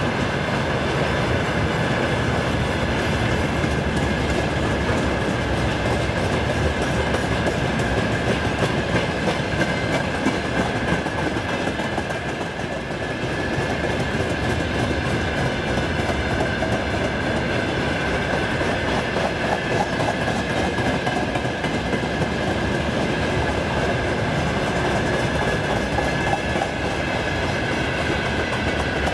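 Freight train wagons rolling past: a continuous rumble of steel wheels on rail with clickety-clack over the rail joints. A steady high-pitched ring sits over the rumble throughout.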